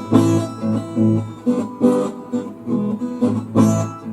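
Acoustic guitar strummed in a steady rhythm, chords struck about twice a second: an instrumental bridge between sung verses.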